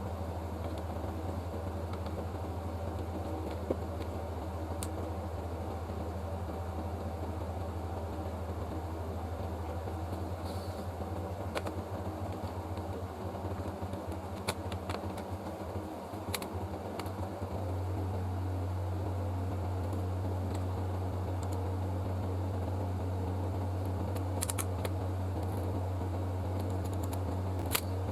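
Steady low electrical hum with a few faint light clicks; the hum grows louder about two-thirds of the way through.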